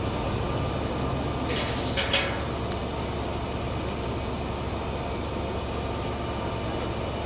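Steady low drone of a machine engine running at a constant speed, with a few sharp clinks about one and a half to two seconds in.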